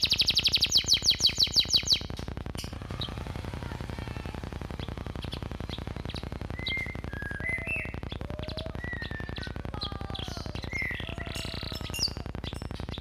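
Canary singing. It opens with a loud, fast trill of rapidly repeated notes for about two seconds, then moves to quieter scattered chirps and short whistled slurs. A steady low hum runs underneath.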